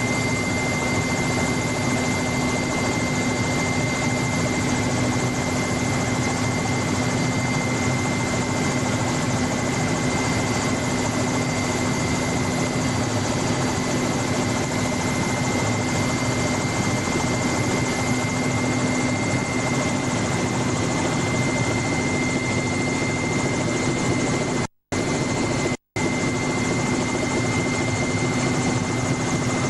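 Steady helicopter noise heard from inside the aircraft: a dense, unchanging din with a constant hum and a high whine. The sound cuts out twice for a split second near the end.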